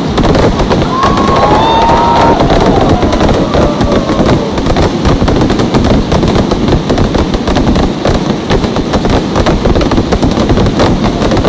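Fireworks going off close by: a loud, dense, continuous crackle of rapid bangs and pops, with a short whistle about a second in.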